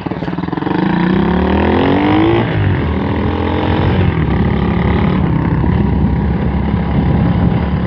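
M2R KX110F pit bike's 110cc four-stroke single engine revving, rising in pitch for about two seconds, then dropping abruptly and running on steadily.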